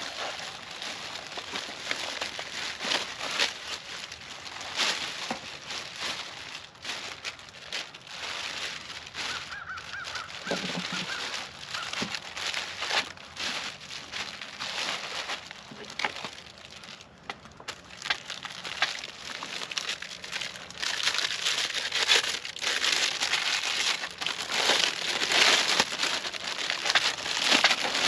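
Packaging being handled and unwrapped: irregular crinkling and rustling of plastic and paper wrapping, with a brief squeak about ten seconds in, growing busier and louder in the last third.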